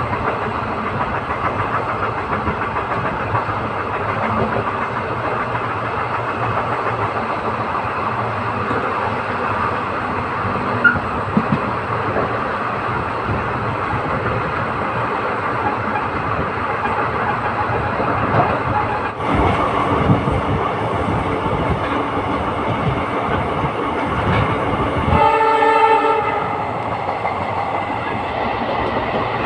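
A moving passenger train heard from on board: steady running noise with wheels clattering over rail joints. Near the end the locomotive's horn sounds once, for about a second.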